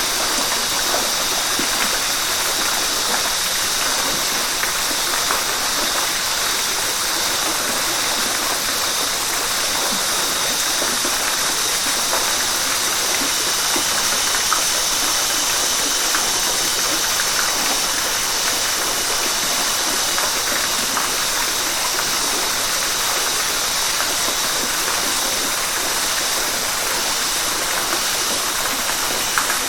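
River water rushing steadily, an even hiss with a few small splashes.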